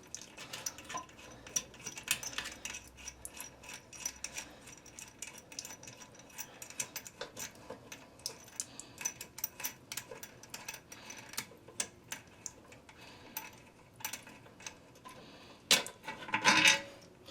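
Ratchet wrench with a deep socket clicking in runs of quick ticks as it backs off the nuts on a toilet's tank-to-bowl bolts, with louder metal clatter near the end.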